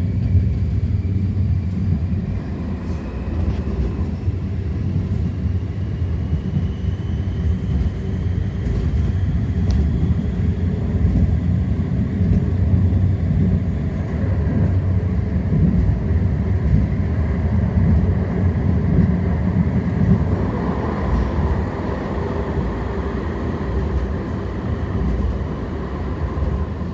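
O-Train light-rail car riding along, heard from inside the car: a steady low rumble of wheels on the track, with a faint whine that rises slowly in pitch over the first several seconds.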